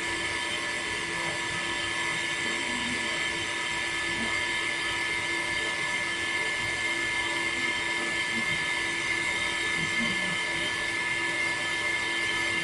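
Small DC motor running steadily with a high, unchanging whine.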